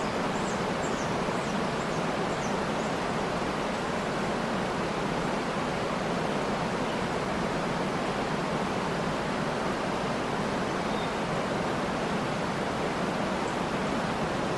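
Waterfall rushing in a steady, unbroken roar of falling water, with a few faint, high bird chirps in the first few seconds and once or twice later.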